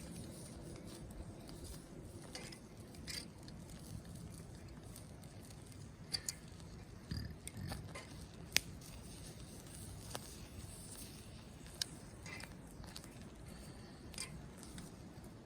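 Wood campfire crackling, with a few scattered sharp pops and a soft low thump about halfway through.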